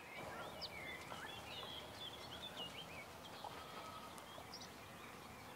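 Faint chirping of small birds, many short high calls, over a steady outdoor background hiss.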